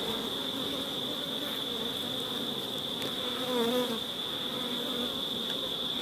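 Honeybees buzzing around an opened hive, a steady hum with one bee buzzing louder as it passes close about three and a half seconds in.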